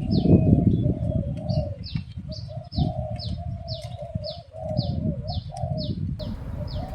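Spotted dove cooing in wavering phrases, with a higher, short, falling chirp repeating about twice a second over it and a low rumble underneath.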